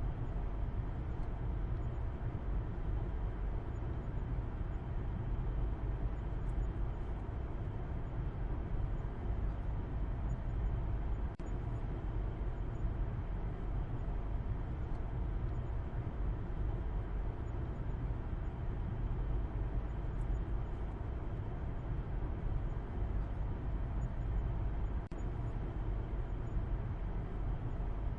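A car driving at a steady pace, a constant low rumble of road and engine noise with a fainter hiss above it, unchanging throughout.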